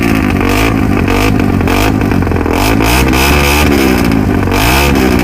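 Engine running loud through a homemade custom exhaust with a makeshift drilled muffler, revved up and down several times.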